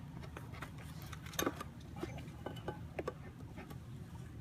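Light clicks and taps of beehive equipment being handled, scattered and irregular, the sharpest about a second and a half in and a few more near three seconds, over a steady low background rumble.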